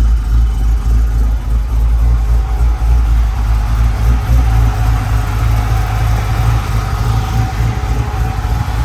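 LS-based 408 cubic-inch stroker V8 idling on its first start-up, with the choppy, uneven idle of its stage 3 camshaft.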